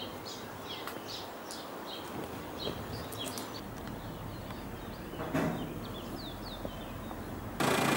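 Small birds chirping in short, quick calls over a steady outdoor hiss, with a few more calls near the end. In the last half second a louder, steady engine hum cuts in abruptly.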